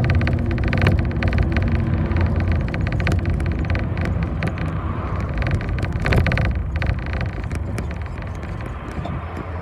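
A route bus's engine and road noise heard from inside the passenger cabin, with frequent small rattles and clicks. It grows gradually quieter toward the end.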